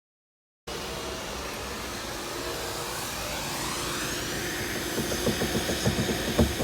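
A small electric power tool's motor spinning up with a rising whine, then running steadily. From about five seconds in, a quick, irregular low knocking joins it.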